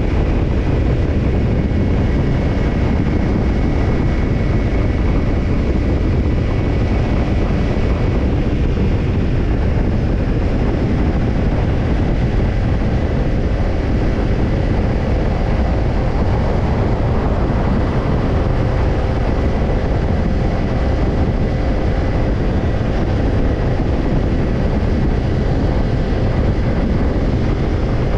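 Kawasaki Ninja 250's parallel-twin engine heard through a BEET Nassert Evolution Type II titanium slip-on muffler, running at a steady engine speed with no revving. A loud, even rumble.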